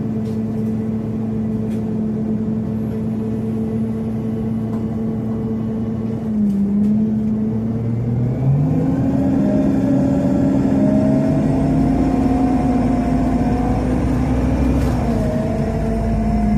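Scania CN270UB city bus with its compressed-natural-gas engine running steadily, heard from inside. About six seconds in, the engine takes up load and the bus accelerates, with a whine that rises slowly in pitch.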